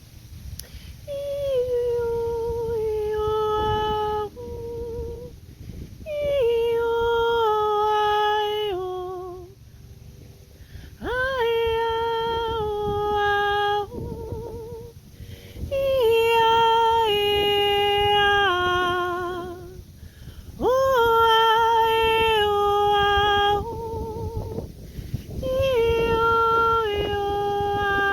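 A woman humming wordless melodic phrases, each a few seconds long with short pauses between. Each phrase holds a note and steps down to lower ones, and several open with an upward scoop into the first note.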